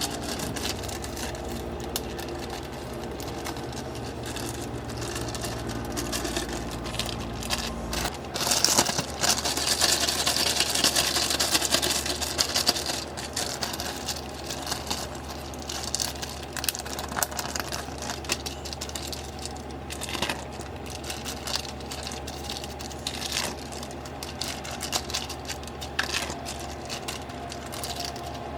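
A small motor hums steadily and cuts off abruptly about eight seconds in. Irregular rustling and crinkling follow, with scattered light clicks and knocks.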